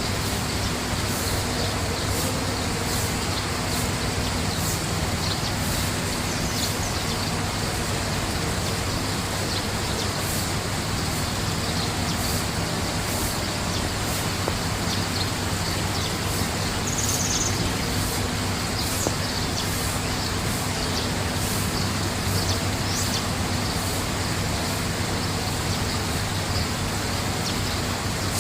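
Steady rushing background noise with a low hum, joined by a few short, faint bird chirps in the middle and later part.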